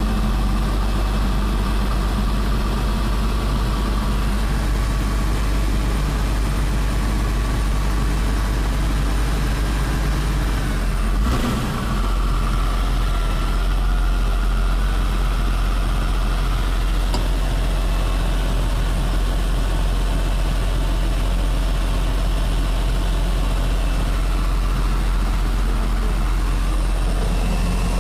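Heavy engine noise at an Airbus A321 pushback: a steady low rumble with a few constant tones above it. A brief knock about eleven seconds in.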